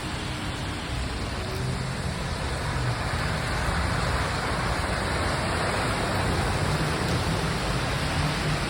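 Steady rushing noise of rain and cars driving along a flooded street, swelling a few seconds in as traffic passes through the water.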